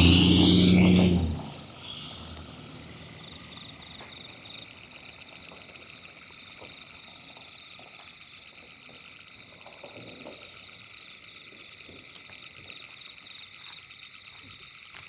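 A loud low hum cuts off abruptly about a second and a half in. It leaves a steady outdoor chorus of frogs and insects, a mass of rapidly pulsing high-pitched calls.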